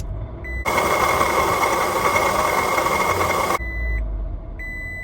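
2005 Scion tC's engine bay giving a loud, harsh grinding noise for about three seconds on start-up, which stops abruptly and leaves a low engine rumble. This is the sign of a failing water pump. A car's warning chime beeps steadily before and after the noise.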